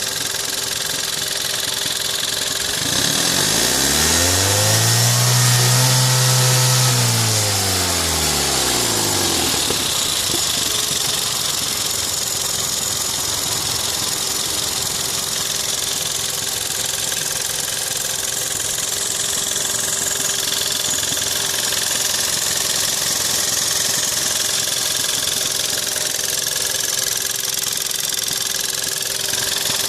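VW 1.4 TSI 122 PS (CAXA) turbocharged four-cylinder engine idling, with a busy mechanical hiss and clatter over the running note. About three seconds in it is revved once, rising and falling back to idle by about nine seconds. The noise is what the owner links to the timing chain, a known weak point on this engine.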